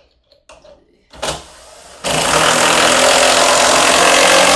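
Power drill driving a screw into wood: a short burst of the motor about a second in, then a loud run of nearly three seconds that stops abruptly.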